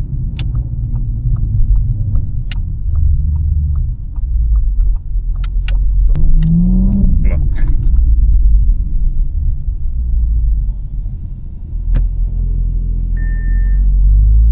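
Audi S5 Sportback's V6 engine with an aftermarket downpipe and RS exhaust, heard from inside the cabin while driving: a deep, loud exhaust drone with a run of sharp pops and crackles. The revs rise and fall once about six seconds in, and a short beep sounds near the end.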